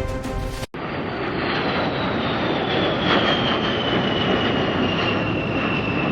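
Jet aircraft engine running with a loud rush and a high whine that slowly falls in pitch; a music track cuts off abruptly just before it.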